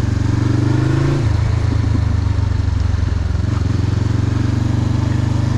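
Motorcycle engine running while riding: its note rises for about a second, drops, and then holds steady.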